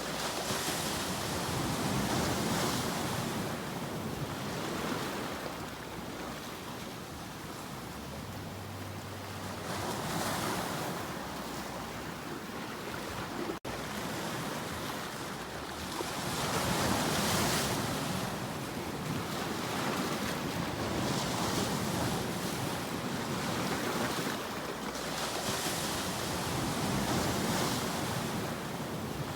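Sea waves breaking and washing on the shore, the surf swelling and ebbing every few seconds. There is a momentary dropout in the sound about halfway through.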